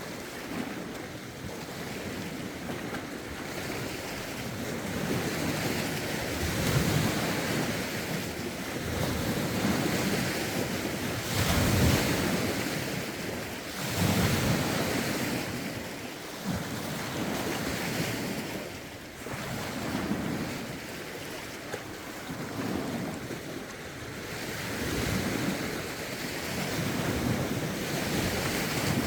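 Lake waves washing in one after another, the sound swelling and falling back every few seconds, with rough wind blowing over the microphone.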